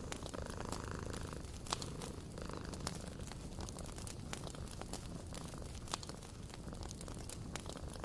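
A cat purring steadily with a low, fluttering rumble, under the scattered sharp pops and crackles of a wood fire.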